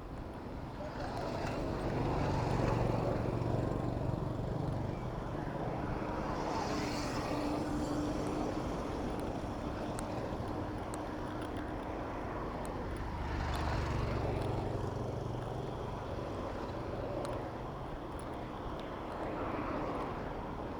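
Urban road traffic heard from a moving bicycle: motor vehicle engines running close by, with a deeper rumble swelling twice as vehicles pass and a steady engine drone in the middle, over a constant rush of wind and road noise.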